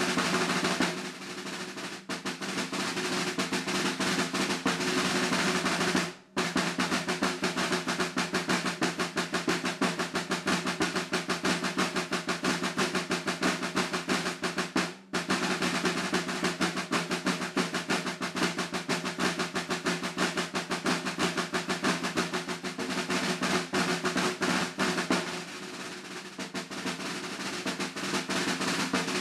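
Unaccompanied snare drum played with sticks, somewhat under tempo: fast rudimental strokes and rolls. There are two brief breaks, about six and fifteen seconds in, and softer rolling passages near the start and near the end.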